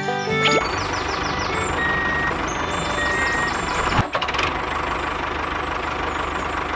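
A small motor of the kind that drives a miniature DIY tractor, running steadily with a constant high whine, with a sharp click about four seconds in.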